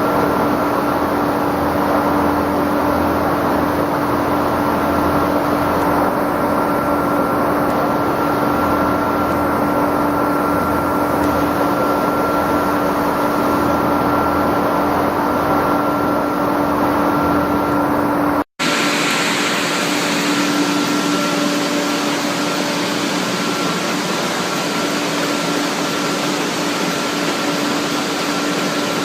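Egg cooking and peeling production line machinery running with a steady hum and steady tones. It drops out for an instant about two-thirds through and resumes with less low rumble.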